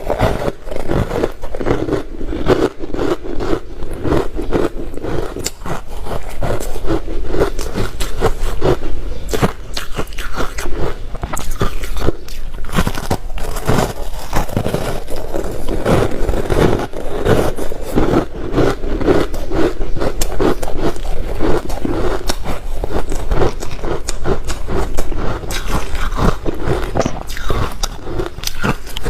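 Close-up crunching of ice being bitten and chewed, a rapid, dense run of cracks and crunches throughout.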